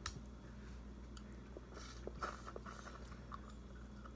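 Close-up eating sounds: chewing food, with a click at the start and a cluster of small wet clicks about two seconds in.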